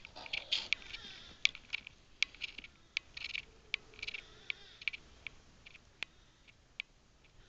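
Irregular sharp clicks, about two or three a second, which the recordist puts down to the camera's lens cap, with a few short high squealing cries in the first half from an unseen animal that the recordist took for an abandoned bear cub.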